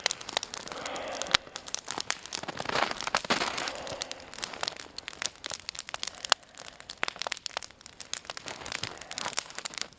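Log campfire crackling, with many irregular sharp pops and snaps over a soft hiss of flame.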